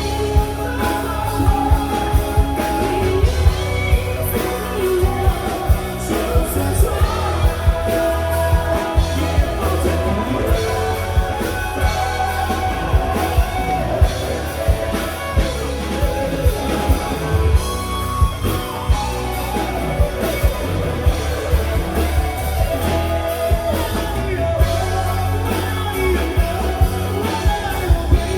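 Live rock band playing a loud Mandopop power ballad: drum kit keeping a steady beat about twice a second under bass and electric guitar, with singing carrying the melody.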